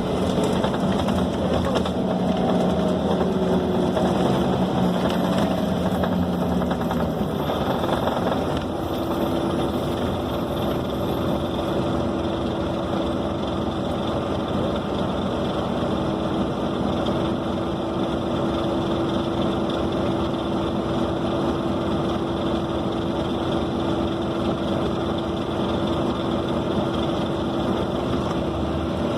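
Scania K270 city bus under way, heard from inside: the diesel engine and drivetrain running with road rumble. A steady tone shifts about seven or eight seconds in, then holds a higher steady note.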